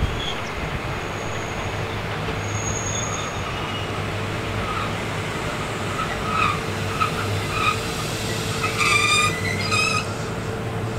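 A former Kintetsu electric train pulling slowly into a station, with a steady low hum. High squeals come in from about the middle, and a louder squeal near the end as it slows.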